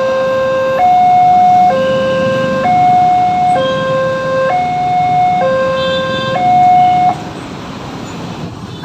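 Railway level-crossing warning alarm: an electronic two-tone signal alternating between a lower and a higher tone, each held just under a second. It stops about seven seconds in, leaving only a low background noise.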